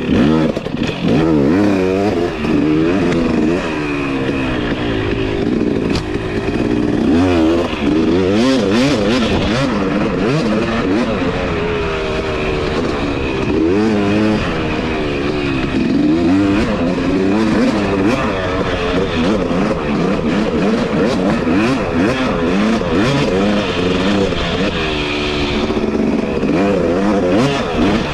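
Two-stroke 250 dirt bike engine being ridden hard, its pitch rising and falling over and over as the throttle is opened and closed.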